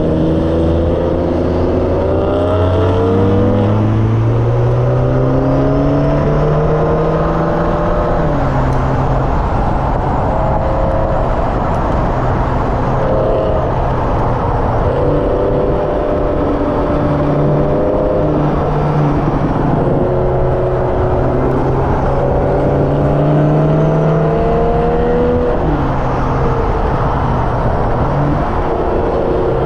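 Hyundai Elantra N's turbocharged 2.0-litre four-cylinder engine under hard track driving: the revs climb steadily for about eight seconds, drop sharply, then rise and fall several more times, over steady road and tyre noise.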